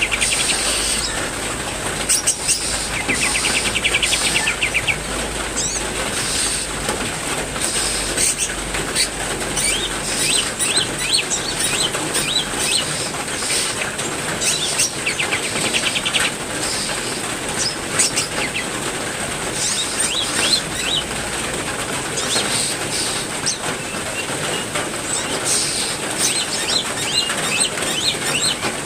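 Steady heavy rain with several birds chirping and calling over it, twice breaking into a rapid trill.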